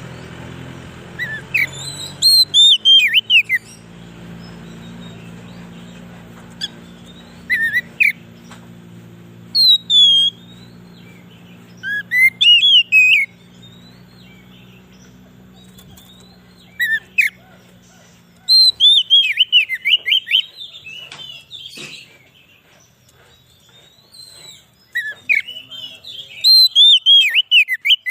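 Oriental magpie-robin (kacer) singing: loud clusters of quick, sweeping whistled notes, each phrase a second or two long, repeated after pauses of a few seconds. A faint low hum underneath fades away about two-thirds of the way through.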